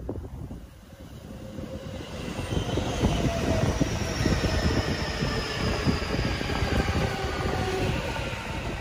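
E233-series electric commuter train passing close by, its wheels rumbling and knocking on the rails, growing louder over the first few seconds and then holding steady. A faint high whine falls slowly in pitch through the passing.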